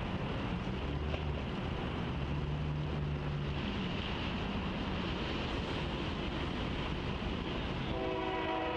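An unseen approaching train: diesel locomotive rumble and rail noise, then the locomotive's air horn sounding several notes at once near the end.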